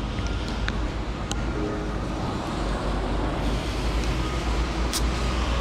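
Steady rush of wind and road noise while riding a road bike along a road, with a few brief sharp clicks.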